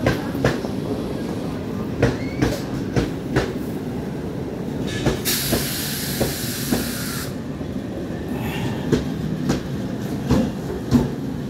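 Eastern Railway EMU local train running past: a steady low rumble with irregular clacks of wheels over rail joints. A loud hiss lasts about two seconds midway.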